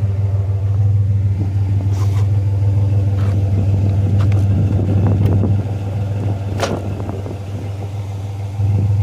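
Vehicle engine running with a steady low hum, a few sharp clicks and knocks scattered through it. The hum drops somewhat a little past halfway and comes back up near the end.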